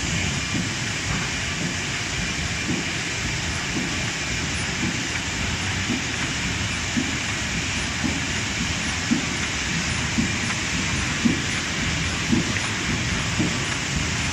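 YE102E high-speed paper embossing machine running: a steady mechanical clatter and hiss with a regular low thud about once a second as it embosses packaging paper.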